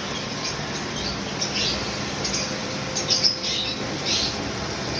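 Lovebirds chirping in short, high calls, busiest about three seconds in, over a steady hiss.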